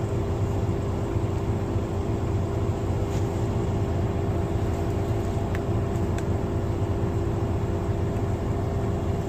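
Steady mechanical drone of an idling semi truck, a low hum with a steady held tone, and a few faint light clicks about halfway through.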